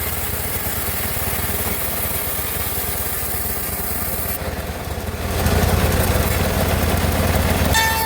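Home-built bandsaw sawmill running with a steady engine-like drone. About five seconds in, it grows louder and deeper for a couple of seconds, and a high steady whine sets in near the end.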